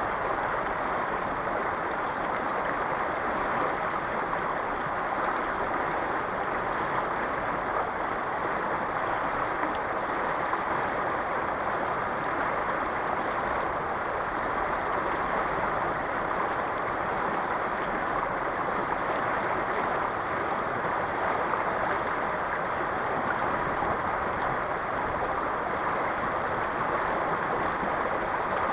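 Fast river current rushing steadily, an even watery noise with no let-up.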